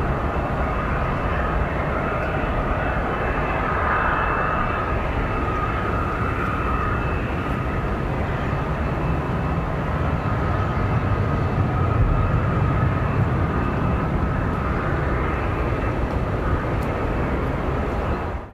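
Airbus A319's CFM56 jet engines running steadily: a whine over a low rumble, swelling slightly in the middle.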